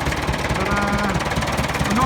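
International Harvester B275 tractor's four-cylinder diesel engine idling with a steady, even knock.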